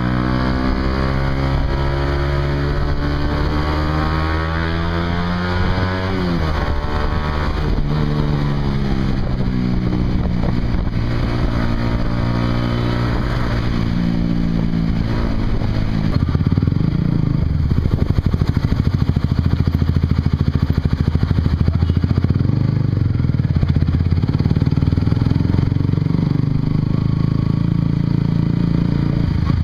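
Honda CBR150R's single-cylinder engine through a Yoshimura exhaust, pulling through the gears: the pitch climbs, drops sharply at a shift about six seconds in, then climbs and falls again. From about halfway on it settles into a louder, rougher, steady rumble.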